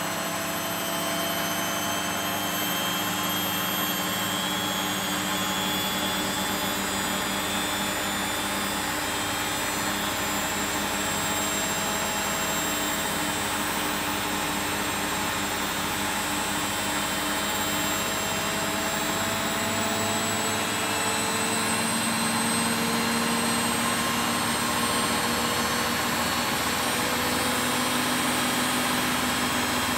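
Beko WTB740E1W washing machine on its spin cycle, the drum motor whining steadily as the drum speeds up toward its 1400 RPM spin. Its tones slowly rise in pitch, and it gets a little louder about two-thirds of the way through.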